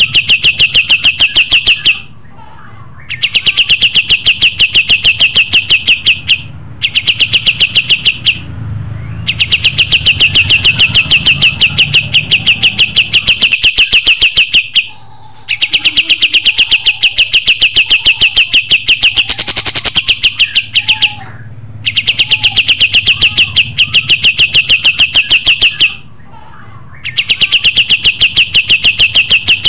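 Kapas tembak singing vigorously: long, fast trills of sharp, evenly repeated chirps, in bouts of several seconds broken by short pauses, very loud.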